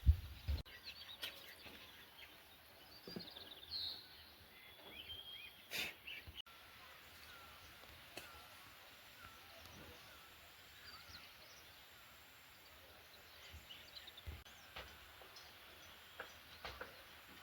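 Small birds chirping faintly and intermittently over a quiet outdoor background. A low rumble cuts off about half a second in, and a few sharp clicks fall in between, the loudest about six seconds in.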